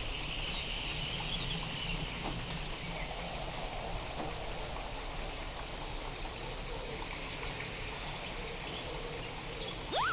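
Steady rain with trickling water, taken from a real storm recording and processed to sound otherworldly. Right at the end a whistling tone sweeps up and falls back.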